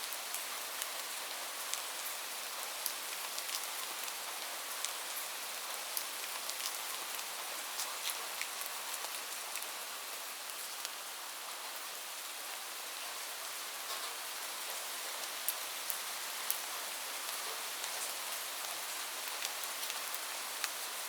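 Steady rain falling, an even hiss with scattered sharp drips and taps of individual drops hitting a surface.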